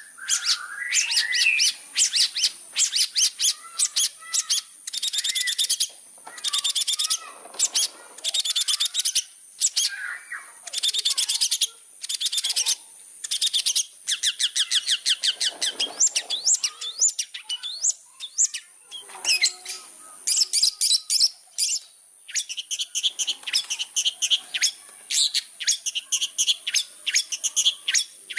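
Long-tailed shrike (cendet) singing in full voice: fast runs of sharp, high chirping notes in bursts of a second or two, with short pauses between.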